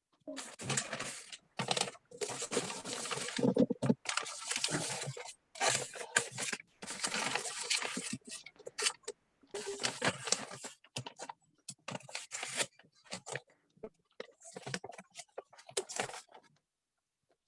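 Wrapping paper crinkling and rustling in irregular bursts as it is folded and pressed around a gift box.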